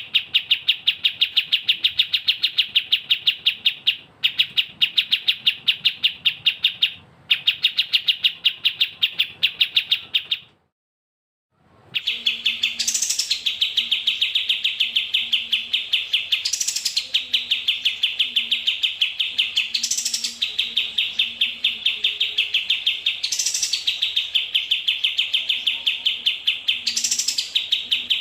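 A small songbird's rapid, evenly repeated chirps, several a second, on a bird-training (masteran) recording. The sound cuts out for about a second some ten seconds in, then the chirping resumes with a louder, sharper high call every three to four seconds.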